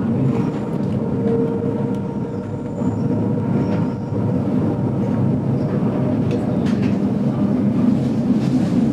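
Metre-gauge train running along the line, heard from inside a vintage passenger carriage: a steady low rumble of wheels on rails with a few faint clicks and a faint steady whine near the start.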